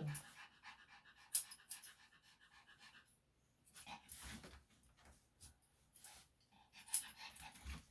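Yorkshire Terrier panting, with a few sharp clicks.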